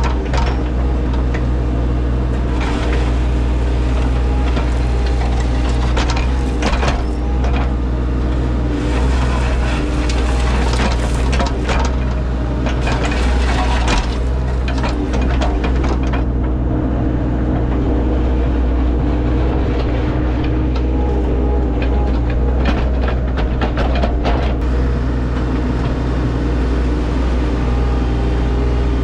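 Heavy equipment's diesel engine running steadily, with irregular scraping and knocking as ground is worked, heaviest in the first half.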